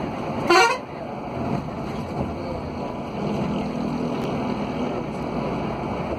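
Road vehicle running with wind buffeting the microphone, a steady rumble and rush. About half a second in, a brief loud rising tone cuts through.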